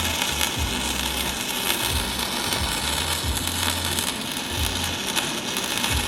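Electric arc welder running one continuous weld: a steady crackling sizzle with a low hum that comes and goes underneath.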